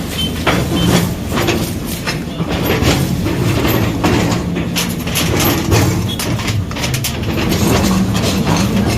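Heavy demolition machinery running with a steady engine hum, overlaid by many sharp metallic clanks and crunches of debris being broken and moved.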